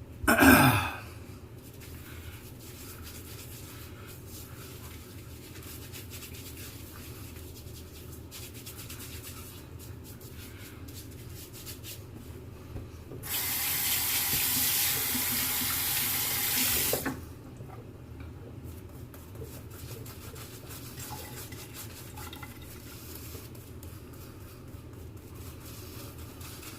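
A sink tap runs for about four seconds near the middle, a steady rush of water into the basin, over a low steady hum. There is a brief loud sound just after the start.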